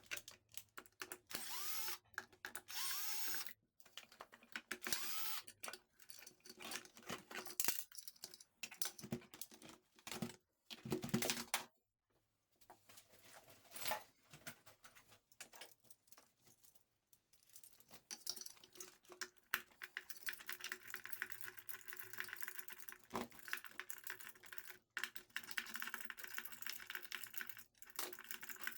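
Irregular clicking and rattling, as of small hard parts or tools being handled, broken by a few short pauses and thicker towards the end.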